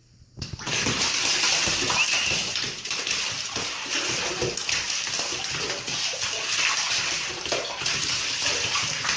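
Water running and splashing, like a tap filling a bathtub, starting suddenly about half a second in.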